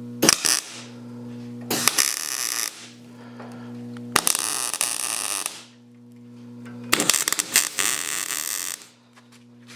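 Welding steel patches onto a rusted snow plow: four separate bursts of arc crackle, the longest about two seconds, between them a steady electrical hum.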